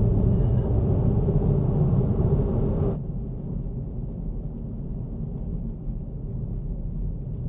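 Car driving, heard from inside the cabin as a steady low rumble of engine and road noise. About three seconds in, the higher hiss drops away abruptly, leaving a softer rumble.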